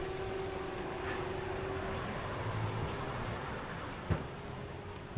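Road traffic on a busy street: vehicles passing in a steady wash of noise, with a sharp knock about four seconds in.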